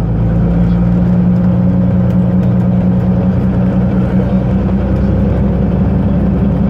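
Freightliner dump truck's diesel engine running steadily under way, a loud, even low drone heard from inside the cab.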